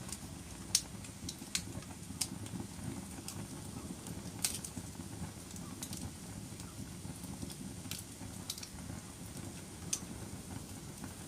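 Wood fire burning in a fireplace: a steady low rumble of flames with sharp, irregular crackles and pops, about a dozen, the loudest about a second in.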